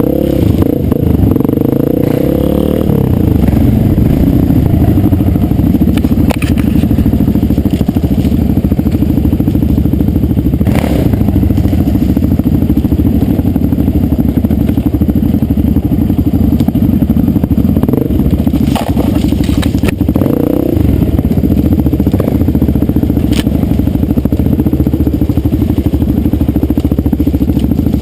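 Dirt bike engine running hard on a ride, its pitch shifting near the start and again about two-thirds through as the throttle changes, with a few sharp clacks over the engine.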